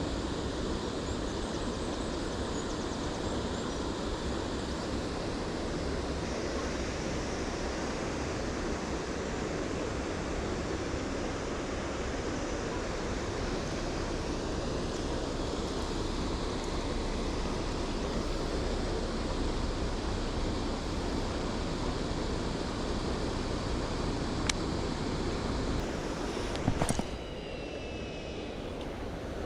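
Steady rushing wind and water noise on an outdoor microphone. Near the end there is a sharp click and a brief high falling whine, after which the rushing is a little quieter.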